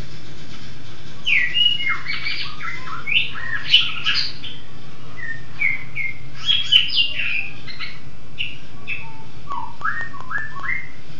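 A songbird chirping and calling in quick bursts of short, sharp notes that jump up and down in pitch, with a few brief pauses, over a steady low hum.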